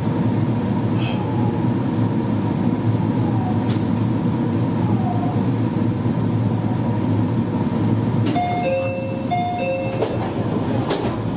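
Meitetsu 1200 series electric train running at speed, a steady rumble of wheels and running gear. Near the end a short two-tone signal sounds, high then low, twice.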